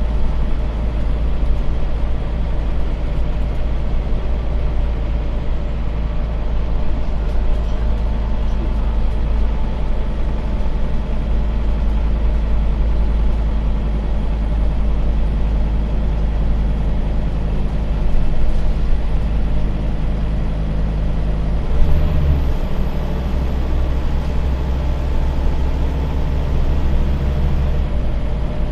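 Scania bus's diesel engine running steadily under way, heard from inside the bus, with a brief change in its note about two thirds of the way through.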